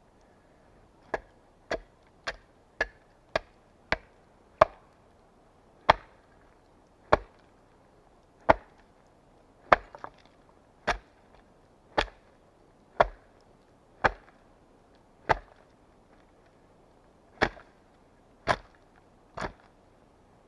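An axe chopping wood: about nineteen sharp strokes. The first few come quickly, nearly two a second, and then they slow to roughly one every second or so.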